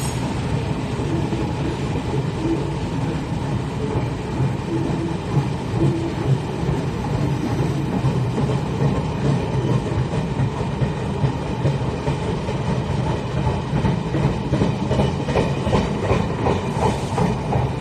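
Taiwan Railways passenger train running along the station tracks: a steady rumble, with wheels clicking over rail joints more distinctly near the end.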